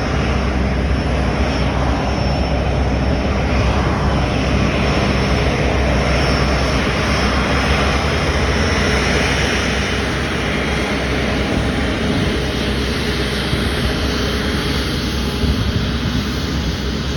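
Airbus A350-900's Rolls-Royce Trent XWB jet engines running at idle as the airliner taxis in to park, a steady rumble and rush with a faint high whine that fades out about halfway through.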